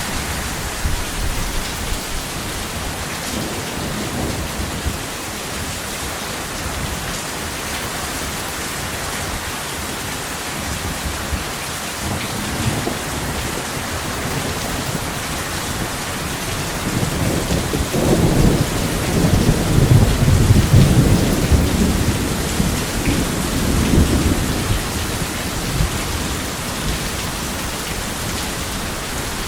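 Steady heavy rain with a thunderstorm; about two-thirds of the way through, a long roll of thunder swells up, rumbles for several seconds and fades back into the rain.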